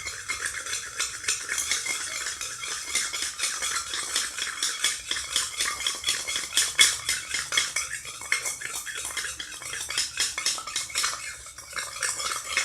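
A spoon stirring glue with borax solution in a container, rapid continuous clicking and scraping of the spoon against the container as the mixture starts to set into slime.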